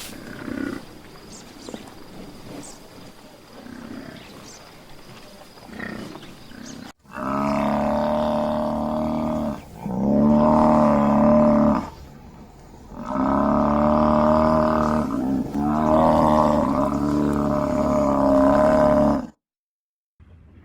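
Giraffe calls: four long, low, drawn-out calls of two to three seconds each, loud and steady in pitch, following several seconds of fainter sound.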